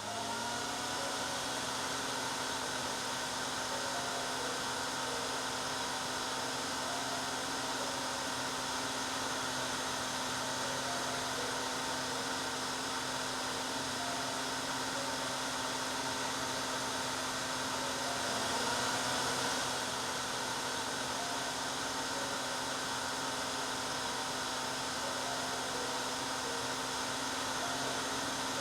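Hair dryer running continuously: a steady rush of air over a constant motor hum. It spins up to speed right at the start, and its pitch wavers briefly about two-thirds of the way through.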